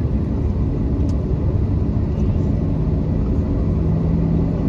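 Cabin noise inside a Boeing 737-800: a steady low rumble from its CFM56 jet engines and the airframe. A steady hum joins about halfway through.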